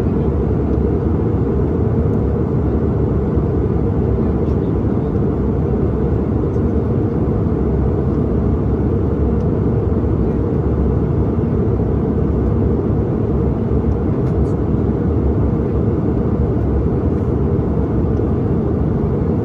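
Steady low roar of an airliner in flight, engine and rushing-air noise heard inside the passenger cabin.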